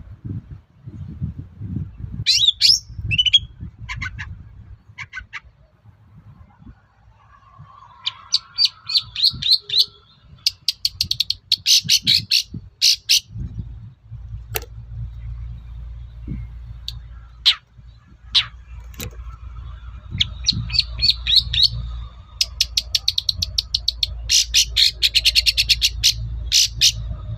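Long-tailed shrike (cendet) singing in bursts of fast, harsh chattering trills, with a few single sharp notes in between.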